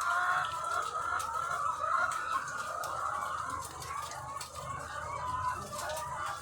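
A large flock of egg-laying hens clucking and calling together in a dense, continuous chorus, over a steady low hum, with scattered small clicks.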